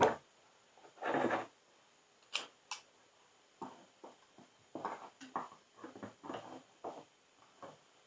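Irregular clicks, clinks and short rattles of metal hydrant parts and hand tools being handled during reassembly of a frost-free yard hydrant, with a longer rattle about a second in and two sharp clicks a little later.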